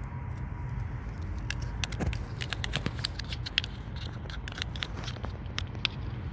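A cat eating wet cat food: a quick, irregular run of sharp clicks from licking and chewing, thickest from about two seconds in, over a steady low rumble.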